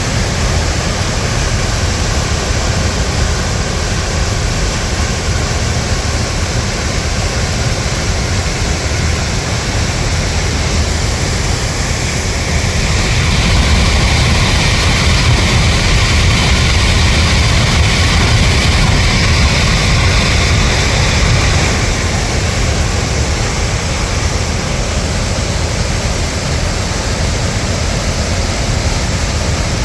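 Floodwater of the Reedy River rushing after a hurricane, a steady, loud rush of water. It grows louder and hissier for about ten seconds in the middle.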